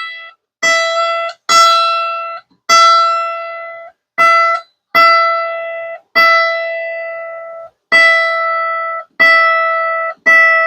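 Washburn mandolin's high strings plucked one note at a time while being tuned, about nine single plucks on the same pitch, each ringing for roughly a second before it is stopped.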